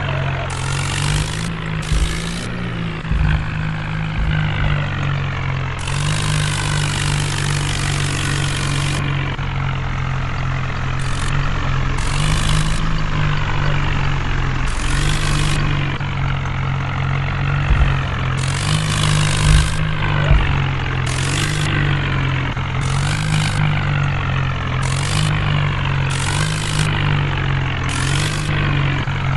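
Tractor's diesel engine running steadily, pulling a load, with repeated short bursts of high hiss over it.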